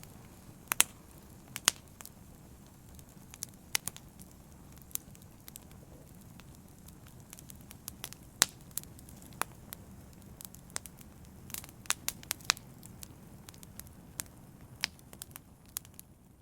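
Open fire crackling: irregular sharp pops and snaps, a few much louder than the rest, over a steady low background of the burning.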